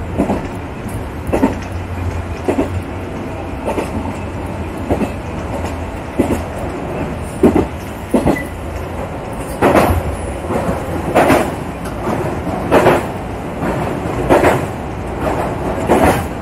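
Local electric train running, with a steady low rumble and its wheels clacking over rail joints about every second and a half, the clacks getting louder from about ten seconds in.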